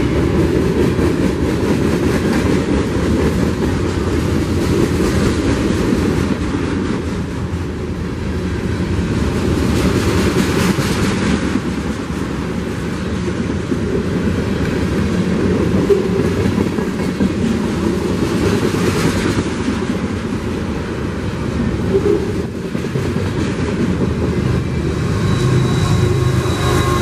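Freight train passing close by: the steady rumble and rattle of wheels on rail as boxcars and intermodal container cars roll past. Near the end a mid-train diesel locomotive's engine comes in alongside, adding a low drone and steady whine.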